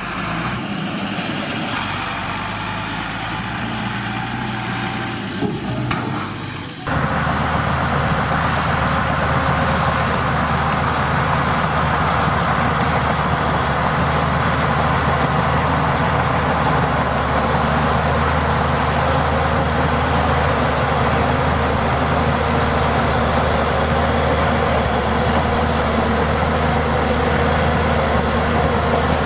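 Heavy diesel earthmoving machinery running steadily. About seven seconds in the sound changes abruptly to a louder, more even engine drone.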